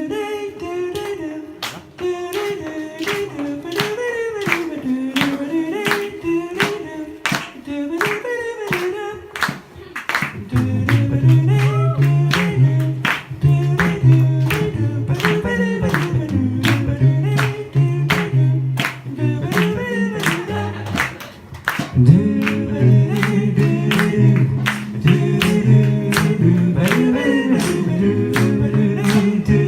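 Live group of voices singing in close harmony without lead words, over a steady beat of sharp clicks about two a second. A low bass part comes in about ten seconds in, and the sound fills out further at about 22 seconds.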